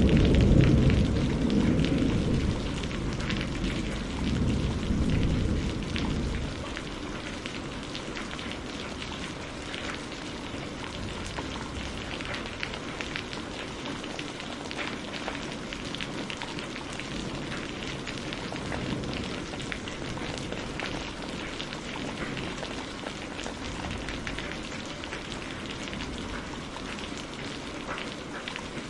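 Steady rain falling, with individual drops ticking on a surface. A low roll of thunder at the start dies away within about six seconds.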